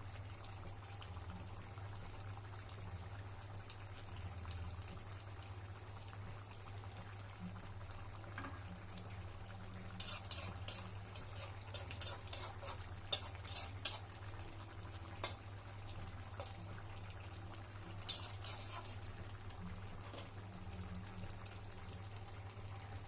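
Bottle gourd curry simmering and sizzling in a pan over a steady low hum. A metal spatula scrapes and clinks against the pan in a run of quick strokes midway, and again briefly later.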